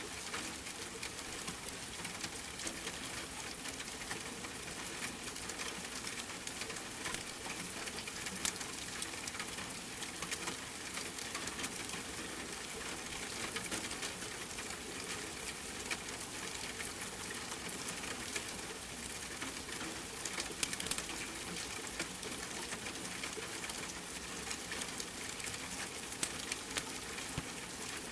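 Steady rain mixed with a crackling wood fire: a constant hiss dotted with frequent small pops and crackles.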